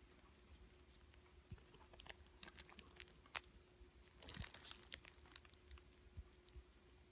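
Faint, scattered clicks and smacks of an opossum chewing potato salad, with a slightly louder cluster about four seconds in.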